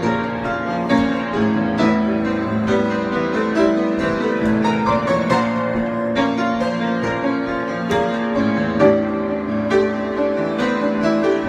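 Solo piano improvisation: a steady stream of struck notes ringing on and overlapping one another.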